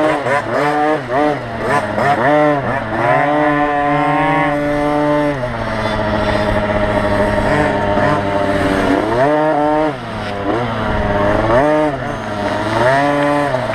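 Small two-stroke 50cc motocross bikes racing: engines rev up and back off again and again as the throttle is worked, the pitch rising and falling every second or two. A steadier engine drone runs underneath.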